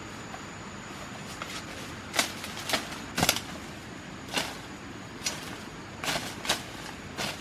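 Irregular short, sharp cracks and rustles, about eight of them from two seconds in, over a steady background hiss.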